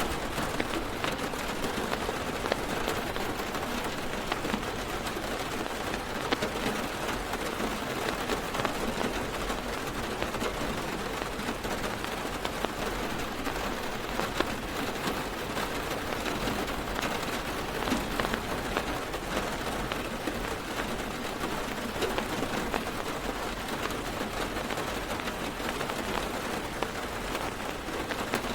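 Heavy rain drumming steadily on a car's roof and windows, heard from inside the car, with a dense patter of individual drops ticking sharply throughout.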